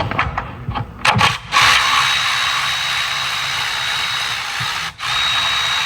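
Hand-held power tool running in two spells, about three seconds, a brief stop, then about a second and a half more, with a steady high whine: spinning out one of the 10 mm bolts holding the ABS pump unit.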